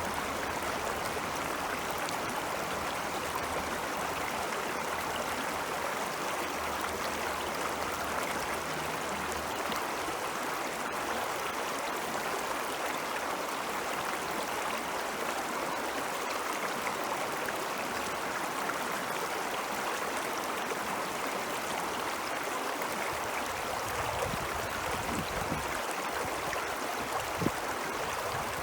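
Ice-melt stream flowing, a steady, even rush of water, with a few low bumps near the end.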